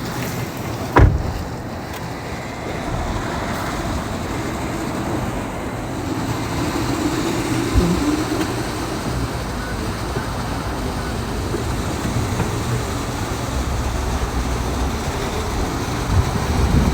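Steady rushing noise of vehicles or machinery, with a sharp knock about a second in.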